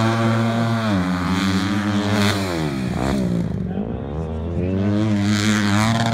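Hillclimb dirt bike engine revving hard under throttle, its pitch repeatedly climbing and dropping back with gear changes and throttle as it climbs the slope; it drops low briefly just past the middle, then winds up again.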